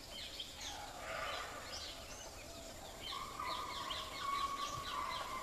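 Birds calling in forest ambience: many short, high, falling chirps, with a long steady whistled note coming in about three seconds in.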